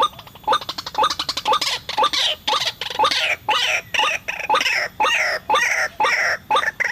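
White-breasted waterhen (ruak-ruak) calling: a few evenly spaced short notes, then about a second in a fast stuttering run of notes that breaks into loud, harsh calls repeated two or three times a second.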